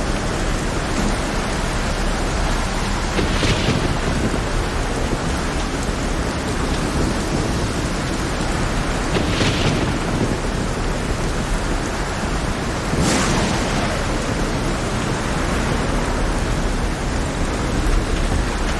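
Heavy rain falling on a rough sea, a dense steady hiss with a low rumble beneath it. Three brief louder hissing surges come through, about 3.5, 9.5 and 13 seconds in.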